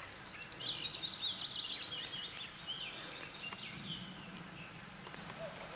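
Songbirds singing: short chirps and calls throughout, over a high, fast, buzzing trill that stops about three seconds in.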